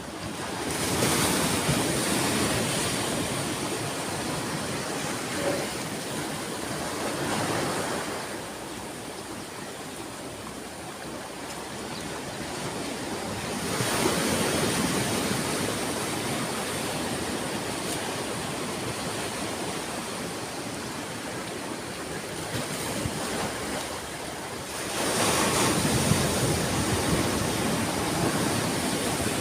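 Ocean surf: waves break and wash back in slow swells, a few seconds to ten seconds apart.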